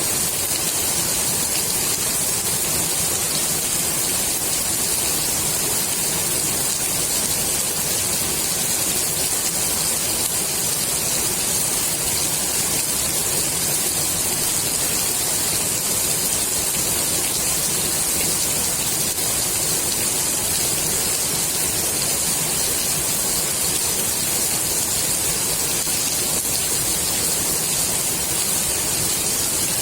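Steady rain falling on the water of a swimming pool, an even hiss with no single drops standing out.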